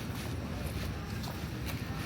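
Footsteps on pavement, a short click every half second or so, over a steady low rumble of wind on the microphone.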